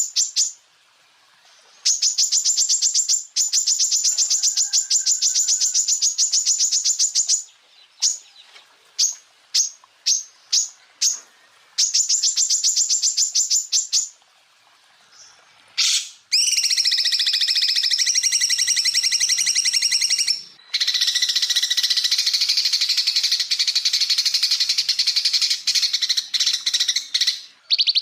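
Greater green leafbird (cucak ijo) song in rapid-fire 'tembakan' phrases: fast, high trills of evenly repeated notes. A run of separate sharp single notes comes about 8 to 11 seconds in, then a long unbroken trill from about 16 seconds.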